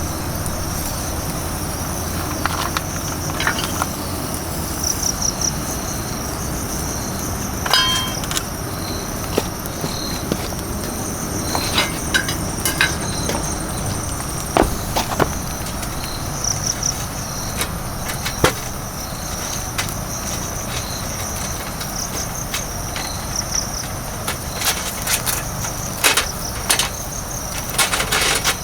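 Insects, such as crickets, chirping steadily in a high pulsing trill, with scattered sharp clicks and knocks, more of them near the end.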